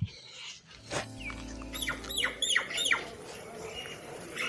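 Outdoor bird calls: a quick run of about five high chirps, each sweeping downward, near the middle. A sharp click comes just before them, about a second in.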